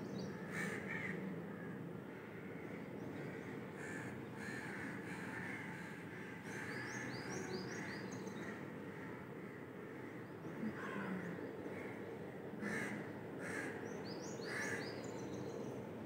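Birds calling, heard faintly over a steady low background noise: short calls in small groups about a second apart near the start, midway and toward the end, with fainter quick high chirps between them.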